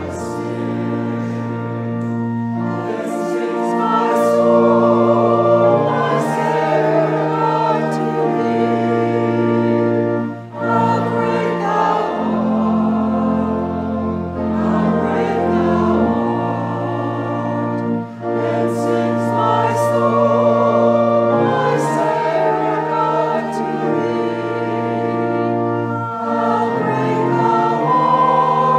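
Many voices singing a hymn over held chords with slowly changing bass notes, with brief breaks between phrases.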